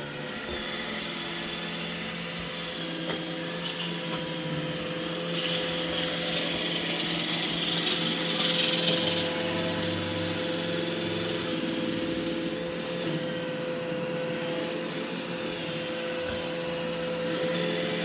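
iRobot Roomba E6 robot vacuum running, a steady motor hum with a hissing suction sound. The hiss gets louder for a few seconds from about five to nine seconds in, then settles back.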